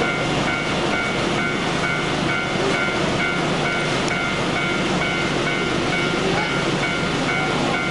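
A train running along the tracks with steady wheel and rail noise. Over it, a repeating two-tone electronic warning beep sounds about three times a second.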